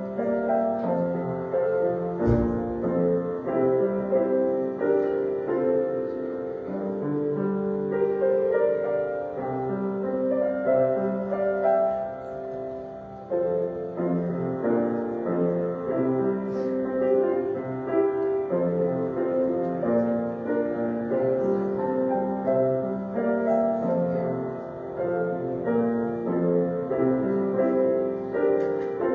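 Instrumental piano music, chords and melody without singing, with a single low thump about two seconds in.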